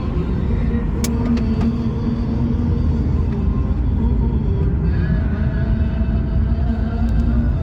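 A car driving along the road, with a steady low rumble of engine, tyres and wind and a few light clicks about a second in.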